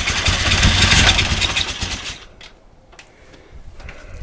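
1976 Triumph T140 Bonneville's parallel-twin engine running loud, peaking about a second in and dropping away after about two seconds.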